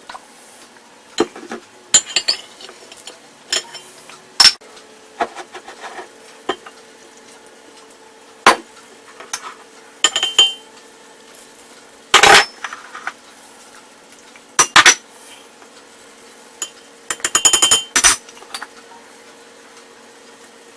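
Utensils clinking and knocking against dishes and bowls during cooking prep: scattered sharp strikes, some in quick clusters, with pauses between. A faint steady hum runs underneath from about four seconds in.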